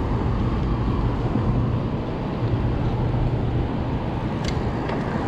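Steady wind rush on the microphone with road and traffic noise while riding an e-bike, and one short sharp click about four and a half seconds in.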